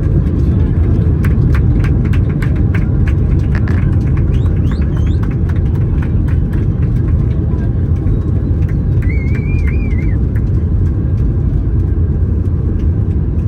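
Airbus A321neo cabin noise: a loud, steady low rumble of engines and airflow heard from a window seat. Sharp rattling clicks come in the first few seconds, and a brief high warbling squeak comes about nine seconds in.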